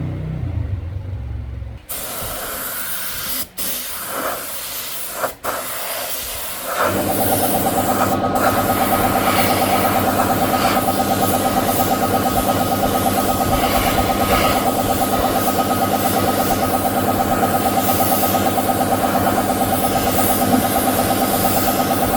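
Steady hiss of rushing air. About seven seconds in, a machine starts running under it with a steady hum and a fast regular pulse.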